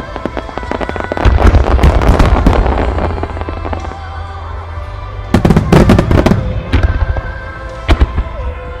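Starmine fireworks: rapid shell bursts and crackling come in two loud clusters, about a second in and again around five and a half seconds in, with a single bang near the end. Music plays along throughout.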